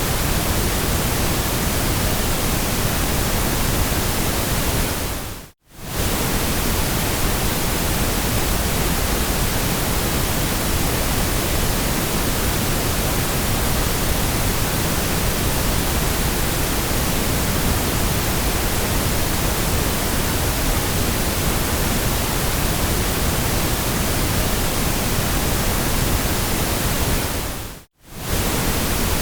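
Steady white noise: an even, full-range hiss with no pattern or tone in it. It briefly fades out to near silence and back in twice, about five seconds in and again near the end.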